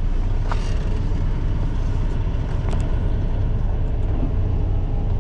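Semi-truck's diesel engine running with a steady low rumble, with a few faint clicks over it.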